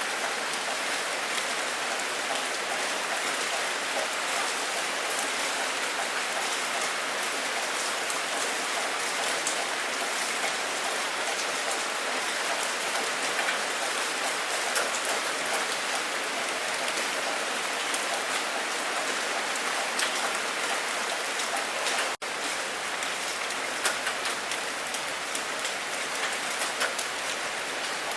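Steady heavy rain falling on a surface, a dense hiss sprinkled with individual drop ticks. About 22 seconds in the sound cuts out for a split second, then carries on as before.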